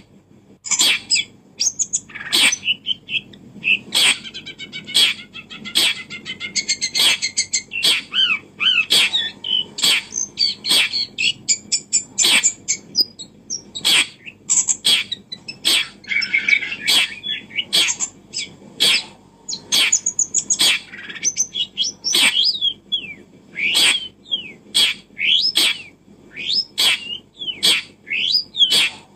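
Birds chirping close by: a quick string of short, sharp chip notes, one or two a second, with warbling trills and gliding chirps in between.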